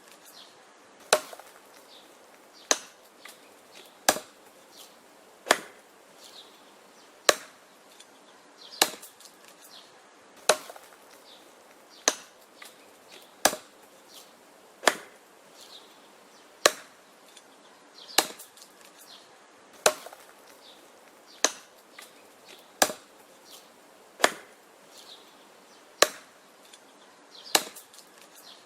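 Wood being chopped: a sharp strike about every one and a half seconds, each followed by a few lighter knocks and cracks of the wood.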